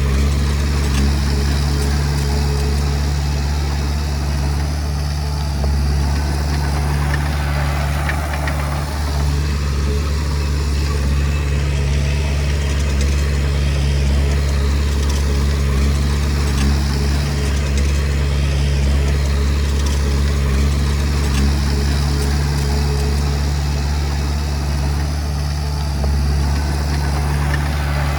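Heavy machinery's diesel engine running steadily with a deep, even hum and little change in pitch.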